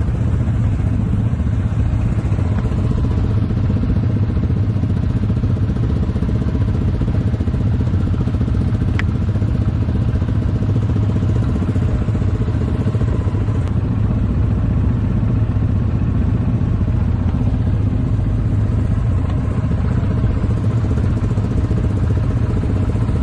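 ATV engine running steadily at an even pitch and level.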